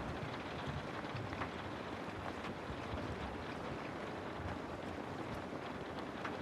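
Steady rain with a low rumble, scattered drops ticking faintly through it.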